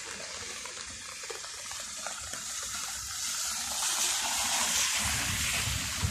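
Steady rain falling, a water-like hiss that swells through the second half, with a low rumble coming in near the end.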